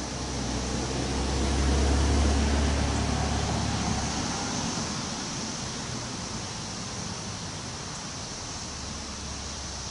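Wind blowing through trees, a steady rushing hiss of leaves, with a stronger gust swelling about a second in and easing off by about four seconds.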